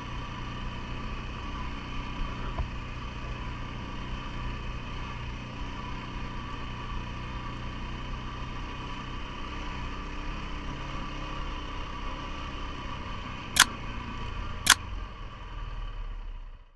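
CFMOTO ATV engine running steadily at an even pitch, with two sharp clicks about a second apart near the end before the sound fades out.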